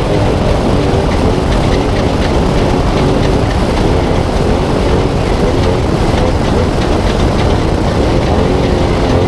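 Spec Trophy Truck engine running hard at a steady pitch, heard onboard under heavy road and suspension rumble from driving fast over desert terrain.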